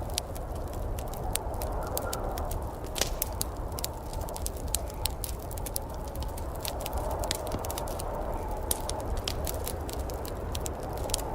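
Wood fire crackling with frequent sharp pops and snaps, over a steady low rumble.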